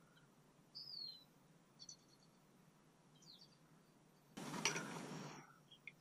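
Small birds giving a few faint, short high chirps. About four seconds in comes a louder burst of noise lasting about a second.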